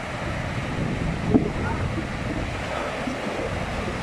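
Sea waves washing on the shore with wind buffeting the microphone, and one brief thump about a second and a half in.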